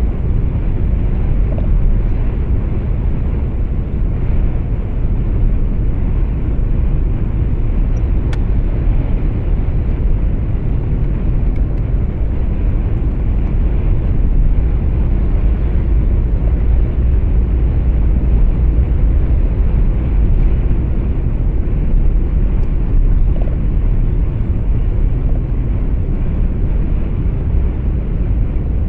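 Steady low rumble of road and engine noise inside a truck's cab.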